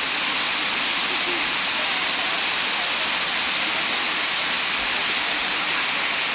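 Waterfall: a steady rush of falling water with an even hiss that does not change.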